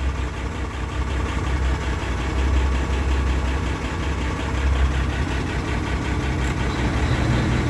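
International 986 tractor's six-cylinder diesel engine idling steadily, heard from inside the cab, with the cab's air-conditioning blower running.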